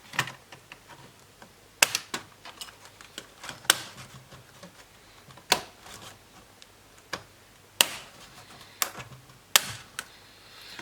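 Plastic clips of a Lenovo B550 laptop's power-button frame clicking and snapping as the frame is pried off the case: irregular sharp clicks, a few of them much louder than the rest.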